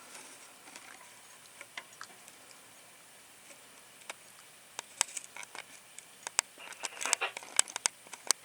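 Starlings pecking at a suet feeder: irregular sharp taps and clicks, a few at a time at first, then a quick cluster near the end.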